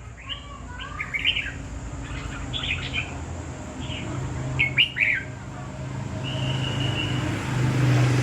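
Birds chirping in short bursts, with one longer held high note about six seconds in, over a low steady hum.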